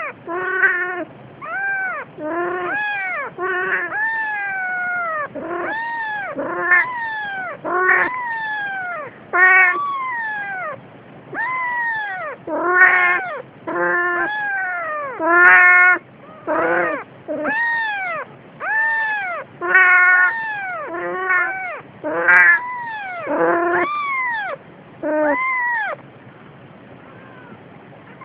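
A cat meowing over and over, about one loud meow a second, each rising then falling in pitch; the calls stop about two seconds before the end.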